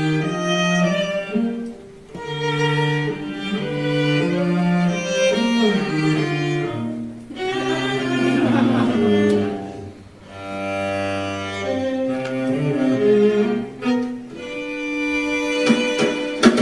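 Instrumental introduction on bowed strings, slow sustained notes in a low register, thinning twice and swelling briefly in the middle.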